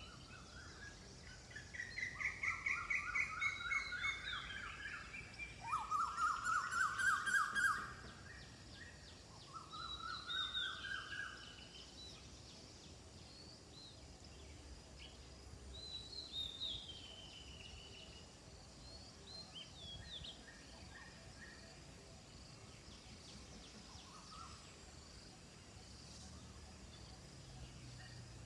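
Wild birds calling: loud, rapid rattling trills between about two and eight seconds in and again around ten seconds, with thinner downward-sliding calls higher up scattered through, over a faint steady background.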